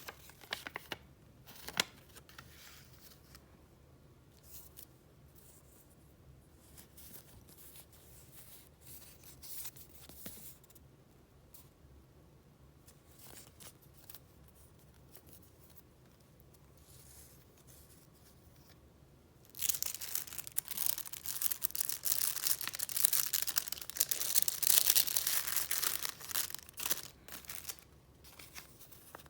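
Paper being handled: light, scattered rustles and clicks, then about eight seconds of dense, louder crinkling and rustling starting around twenty seconds in.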